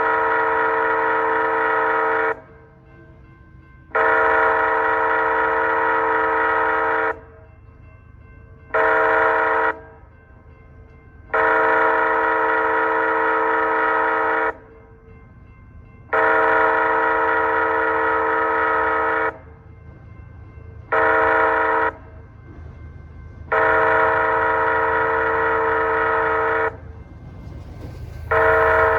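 Lead locomotive's multi-chime air horn (BNSF ES44AC) sounding the grade-crossing warning: long blasts of about three seconds each, with a short blast after every second long one, repeated as the train approaches the crossing. A steady low rumble of the train runs underneath.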